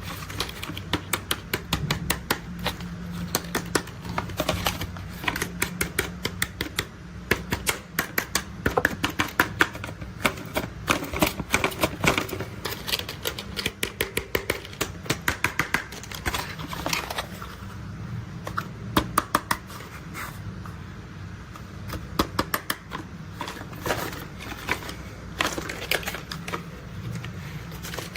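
Plastic toy construction vehicles being handled: quick, irregular plastic clicks and clatter, coming in busy flurries with short lulls, over a steady low hum.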